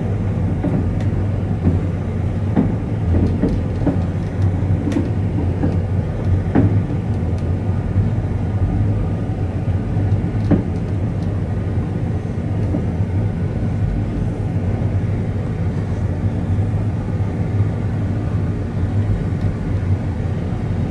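Passenger railcar running, heard from inside the car: a steady low rumble with a few sharp clicks and knocks scattered through it.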